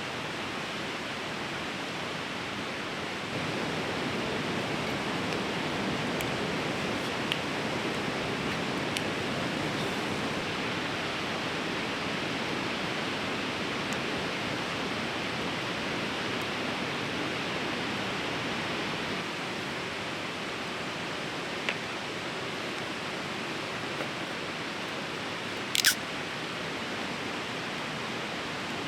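Fast river rushing, a steady even roar. A few faint ticks, and one sharp click near the end.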